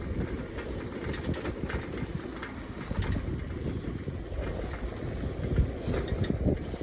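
A bike rolling over a rough surface: a steady low rumble with irregular rattling clicks throughout.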